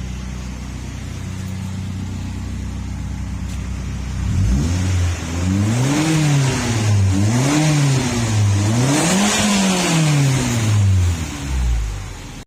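Toyota Avanza engine running through an aftermarket bolt-on racing exhaust: it idles steadily, then is revved three times, each rev rising and falling in pitch, before it drops back toward idle near the end.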